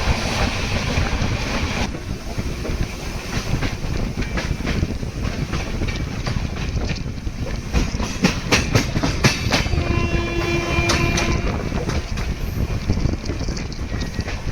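Express passenger train running on the track, with a steady rumble and wheels clacking over rail joints, the clacks coming thick and sharp a few seconds before a brief horn sounds about ten seconds in.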